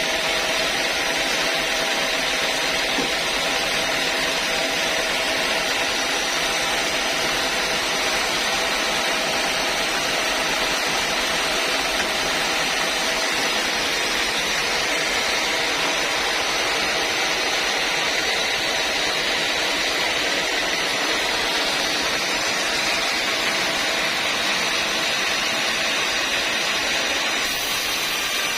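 Sawmill machinery running steadily with a continuous mechanical noise, its tone shifting slightly near the end.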